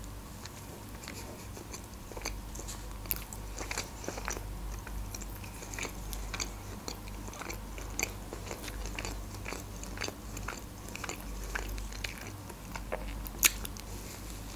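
Close-miked eating sounds of a person biting into and chewing soft pancakes: many small mouth clicks, with one louder click near the end.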